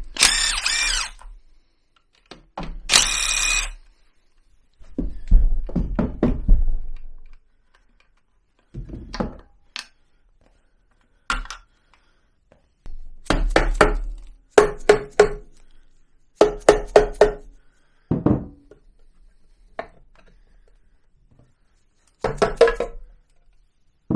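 Tools and metal parts knocking and clinking as the bolts and the clutch/variator cover come off a 1986 Honda Elite scooter engine. There are two short loud bursts near the start, then clusters of sharp knocks and clinks with quiet gaps between.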